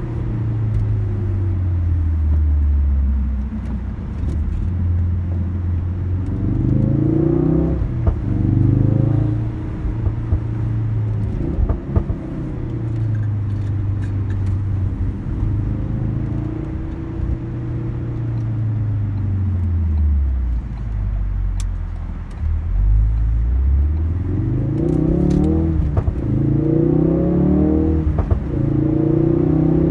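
Ford Focus RS's turbocharged four-cylinder engine heard from inside the cabin, its revs repeatedly climbing under acceleration and falling away, over steady road noise. The steepest climbs come about six seconds in and again from about twenty-three seconds to near the end.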